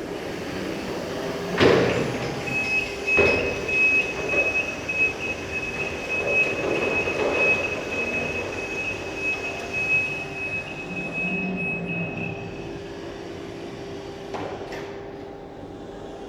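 Electric reach truck at work: a steady high-pitched tone for about ten seconds over the machine's lower hum, with a couple of sharp clunks near the start.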